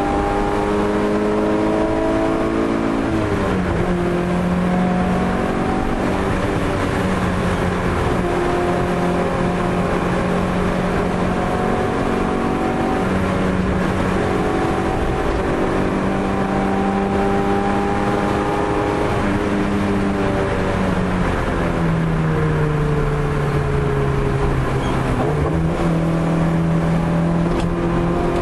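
A car's engine pulls through the gears on a fast lap, its pitch climbing slowly under load. It steps down at a gear change about three seconds in, then falls away for several seconds near the end as the car slows, before picking up again. The engine runs over a steady wash of road and wind noise.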